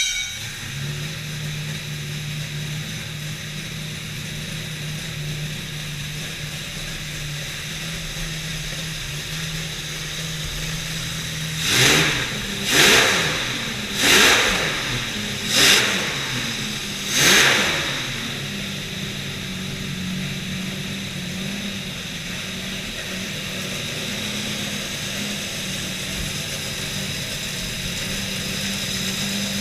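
Stroked 7.3-litre Jaguar V12 running on an engine stand. It idles steadily, then about halfway through it is blipped five times in quick succession, each rev rising and falling sharply, and it settles back to a steady idle.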